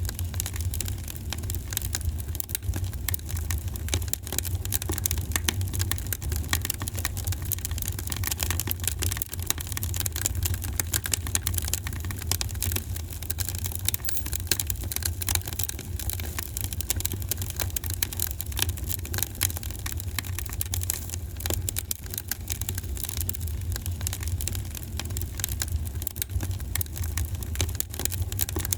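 Wood fire in a fireplace crackling: many small irregular pops and snaps over a steady low rumble of the flames.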